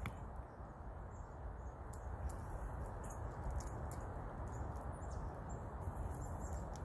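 Faint, short high chirps from small birds, scattered a few at a time over a steady low outdoor background noise.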